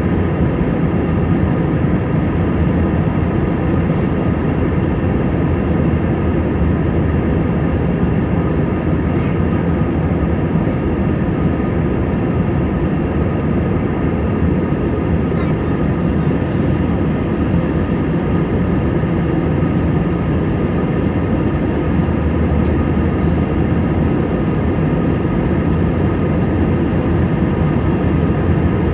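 Airbus A320 jet engines and airflow making a steady, loud hum, with several steady tones above it.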